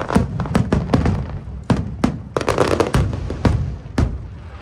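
Aerial fireworks going off in quick, irregular succession: sharp bangs and crackles mixed with deep booms, several a second.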